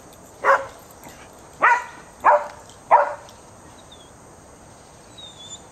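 A dog barking: four short barks over about three seconds, then quiet.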